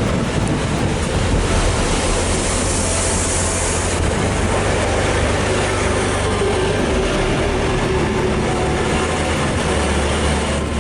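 A train running along a seaside line, its steady rolling noise mixed with wind and surf from waves.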